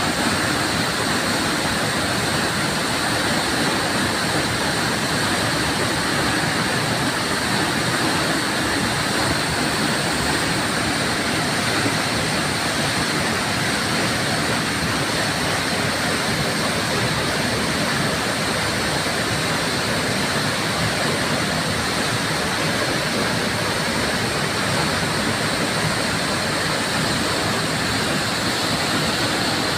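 Waterfall pouring and splashing as a steady, even rush of water.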